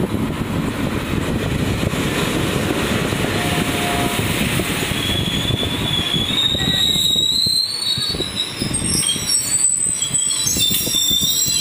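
Diesel-hauled Indian passenger train rolling slowly past close by, its coach wheels rumbling and clattering on the rails. From about five seconds in, high squeals from the wheels and brakes rise over the rumble as the train slows into the station.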